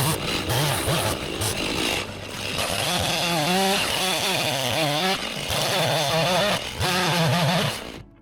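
Chainsaw engine revved up and down in a series of bursts, with brief drops in throttle between them, while felling a large tree; it cuts off suddenly near the end.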